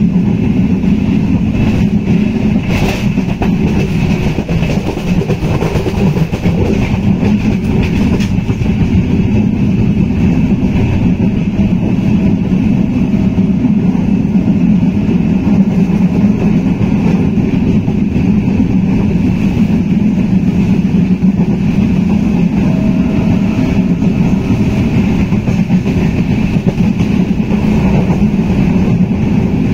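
Passenger train running at speed, heard from a carriage window: a steady rumble and rattle of wheels and carriage on the track.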